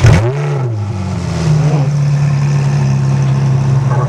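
Ferrari engine firing up: it catches with a loud, sharp rev blip that rises and falls in pitch, then settles into a steady fast idle.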